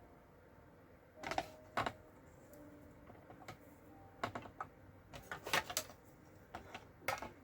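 Scattered light clicks and taps of cardstock pieces and small craft tools being handled and set down on a work table, a pair about a second in and a busier run in the second half.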